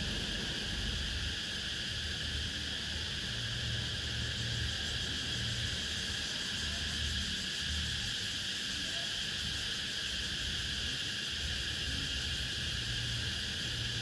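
Cicadas singing in a steady, unbroken buzz.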